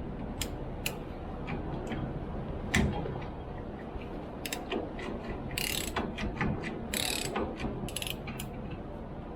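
Metal clicks and clinks from hand tools and parts being handled on a truck's rear wheel hub, with a few short runs of rapid clicking about halfway through and near the end.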